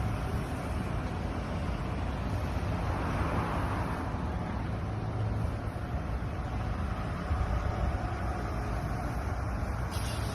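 Steady low vehicle rumble heard outdoors, swelling briefly about three seconds in.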